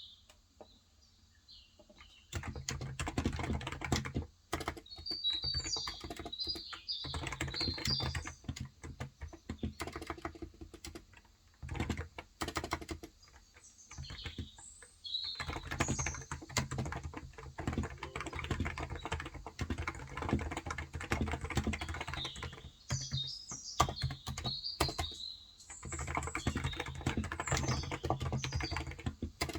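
Typing on a Cox Endeavor electrostatic capacitive (Topre-style, 35 g) tenkeyless keyboard, in quick runs of keystrokes with short pauses, starting about two seconds in. Birds chirp at intervals over the typing.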